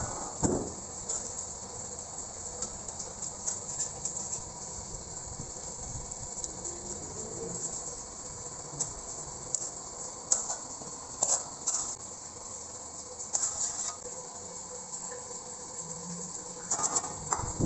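Eating sounds of noodle soup close to the microphone: scattered short chewing and slurping noises over a steady hiss.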